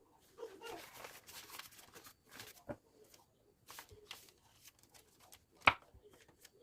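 Soft rustling and handling noises with scattered light clicks, and one sharp click about two-thirds of the way through.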